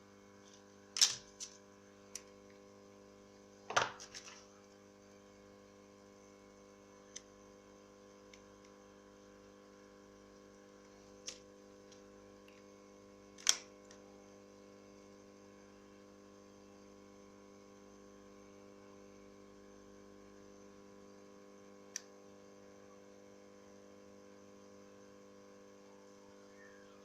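Steady electrical hum with scattered sharp clicks and taps of small tools and phone parts on a work surface. The loudest click comes about a second in, a double tap near four seconds, and another loud click near the middle.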